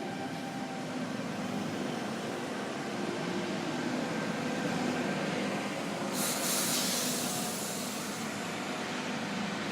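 CityRail electric suburban train drawing into the station, a steady rumble with faint motor tones. About six seconds in comes a sharp hiss of air lasting about two seconds, typical of the air brakes as the train comes to a stop.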